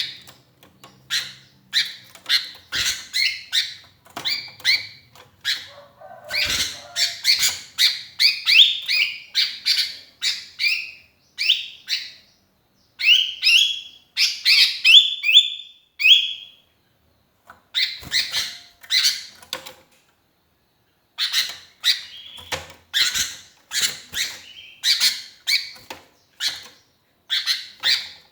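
Sooty-headed bulbul calling busily in rapid runs of short, high chirps, about three or four a second, some notes gliding downward, broken by a couple of brief pauses.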